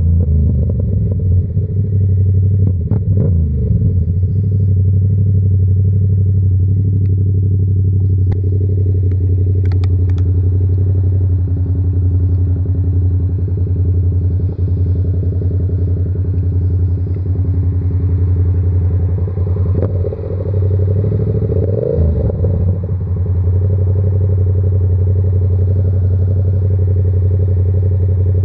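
Yamaha R7's 689 cc parallel-twin engine with an SC-Project exhaust, running at steady revs while riding. The revs dip and pick up again briefly about twenty seconds in.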